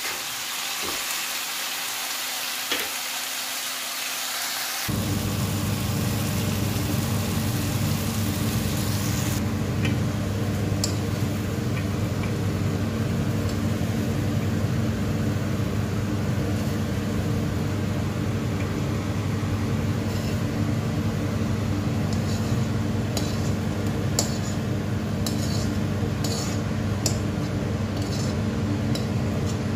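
Onions and tomatoes sizzling in a metal kadai. About five seconds in, a steady low hum sets in and carries on. In the second half, light clinks of a ladle tapping the pan come every second or so.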